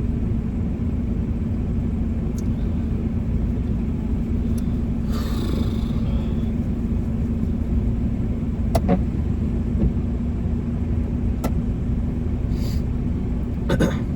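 Car engine idling, heard from inside the cabin: a steady low rumble with a constant hum, broken by a brief rustle about five seconds in and a few light clicks.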